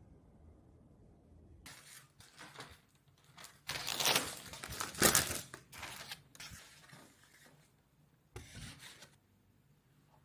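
Rustling and scraping of something being handled, in irregular bursts, loudest about four to five seconds in, with one more short burst near the end.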